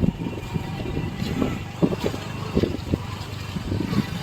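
Motor vehicle running, an uneven low rumble with irregular thumps.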